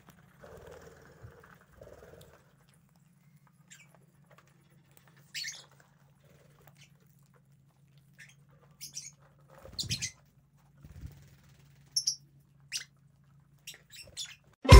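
Lovebirds giving short, sharp, high-pitched chirps, scattered a second or a few seconds apart and coming closer together near the end, over a faint steady low hum.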